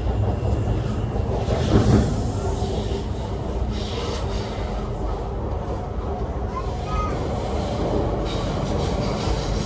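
MTR Tuen Ma Line electric train, a Kinki Sharyo/Kawasaki set, running along the line: a steady low rumble of wheels and running gear, with a brief louder surge about two seconds in.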